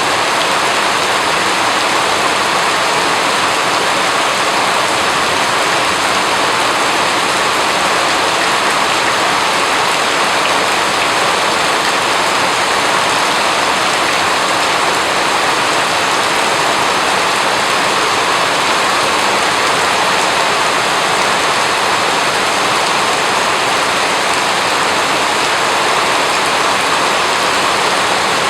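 Steady rain falling, an even, unchanging hiss of rainfall.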